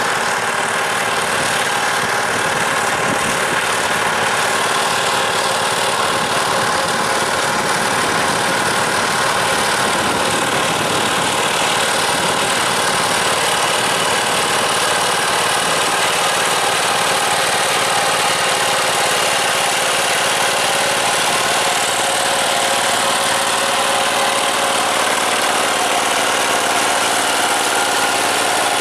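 Tractor's diesel engine running steadily at a constant speed.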